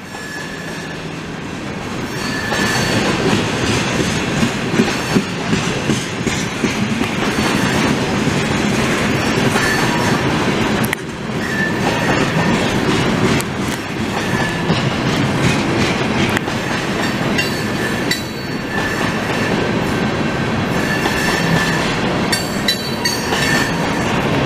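Canadian Pacific freight train of tank cars rolling past: steady wheel-and-rail rumble with clickety-clack over the rail joints, and brief high wheel squeals on and off. It grows louder over the first couple of seconds.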